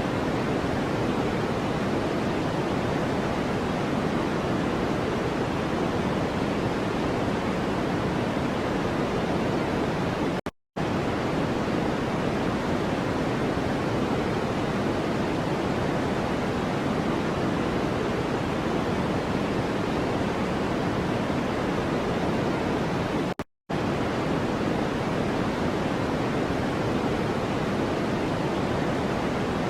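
A steady, even noise track for masking, soft and rushing with more weight in the lower tones than the higher. It cuts out to silence for a split second twice, about 13 seconds apart.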